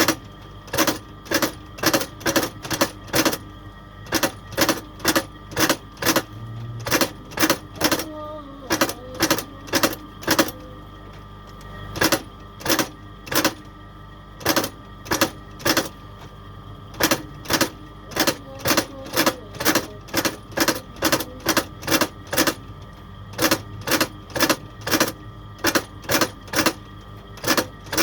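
Hammer striking again and again in quick, uneven runs of sharp knocks, about two or three a second with brief pauses, like a cobbler hammering on a shoe, over a steady low hum.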